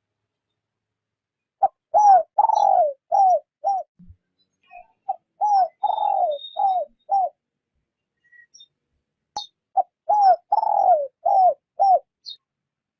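Spotted dove cooing: three phrases a few seconds apart, each a quick run of five or six low coos with one longer, falling note in the middle.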